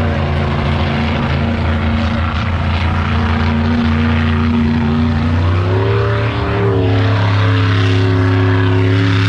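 Monster truck engine running loud and steady, its pitch rising about six seconds in as it revs up and then holding at the higher speed.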